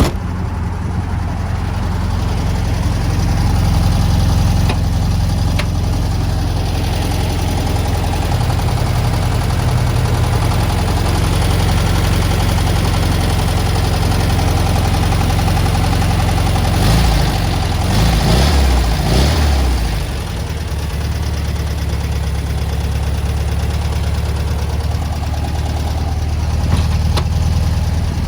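1964 Volkswagen Beetle's 1200 cc air-cooled flat-four engine idling steadily, blipped up and down a few times about two-thirds of the way through, then settling back to idle.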